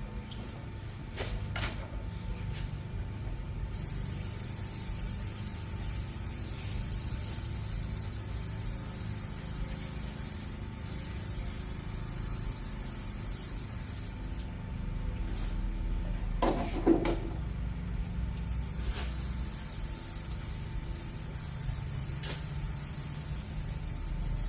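Spray can hissing in long continuous stretches as a cleaning or shine product is sprayed over the engine. The spraying pauses briefly, a clunk is heard in that gap, and then the spraying resumes.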